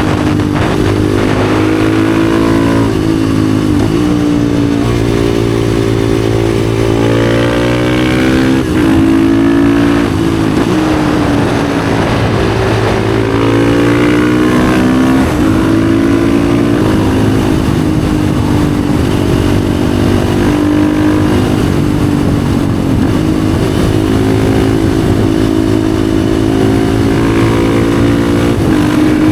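Husqvarna FE 450's single-cylinder four-stroke engine running loud through an FMF exhaust under riding load, its revs climbing and falling over and over with several sudden drops in pitch, as the bike is accelerated, shifted and eased off through curves.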